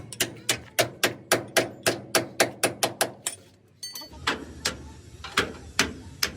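Hammer striking metal in quick, even blows, about five a second. The blows stop about three seconds in, then resume as slower, spaced strikes over a steady low rumble.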